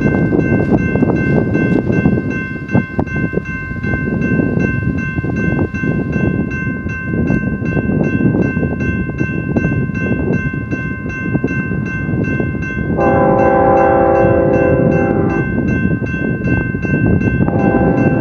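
BNSF intermodal freight train running past at speed: a steady rumble of wheels on rail with a high steady ringing over it. A train horn blows one chord for about two and a half seconds roughly 13 seconds in, and sounds again near the end.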